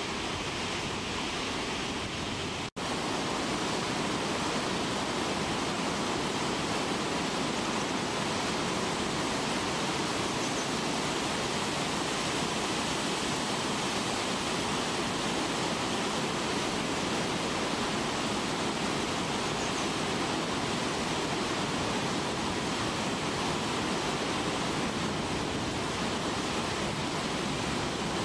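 Naena Falls, a large waterfall, pouring steadily: an even, unbroken rush of falling water, with a momentary break a little under three seconds in.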